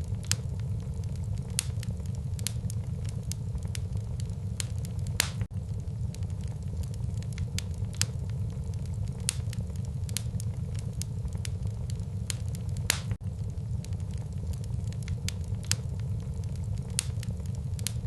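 Wood fire burning in a fireplace, crackling: a steady low rumble of the flames with scattered sharp pops, two louder pops about five and thirteen seconds in.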